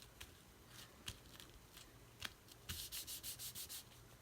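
Quick rubbing strokes on a paper page, about eight back-and-forth passes in a second near the end, with a few light taps and clicks before.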